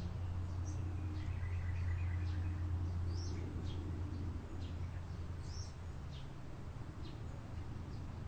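Birds chirping in short, scattered high calls over a steady low rumble that eases off about halfway through.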